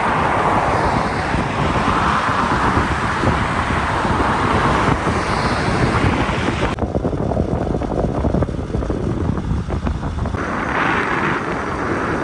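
Steady wind rushing over the microphone while riding fast downhill, mixed with road noise from the moving bike.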